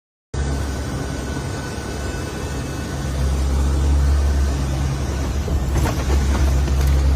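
Cabin noise inside a four-engine turboprop aircraft in flight: a steady deep engine and propeller drone over a rush of air. It cuts in suddenly and grows louder about three seconds in, with a few faint rattles near the end.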